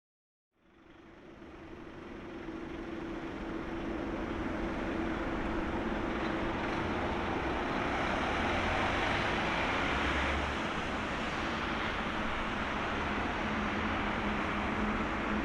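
Jet engine noise from a Boeing 777-300ER's two GE90 turbofans on approach to land: a steady rushing noise with a low steady hum, swelling over the first few seconds.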